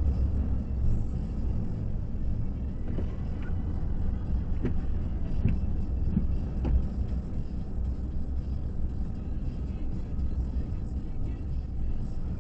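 Car driving slowly, its steady low road and engine rumble heard from inside the cabin, with a few light clicks about midway.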